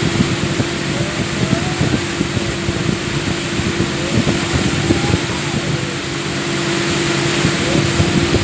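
Motorboat under way: its engine runs with a steady hum at one pitch under a constant rush of water and wind, with frequent short low thumps.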